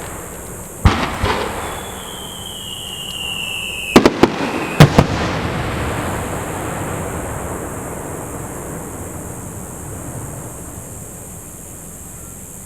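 Aerial fireworks going off. There is a sharp bang about a second in, then a whistle sliding down in pitch, then a quick cluster of four bangs around four to five seconds. A rumbling, crackling tail fades away after them.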